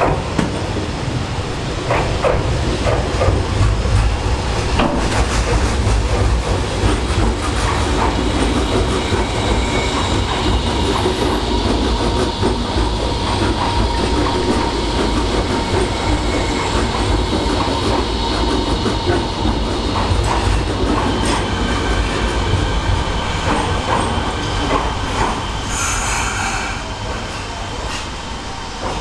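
Fukuoka City Subway 1000-series electric commuter train running past close by: a steady heavy rumble of wheels on rail with repeated clicks over the rail joints. A brief high-pitched squeal comes near the end, and the sound then begins to fade as the last cars go by.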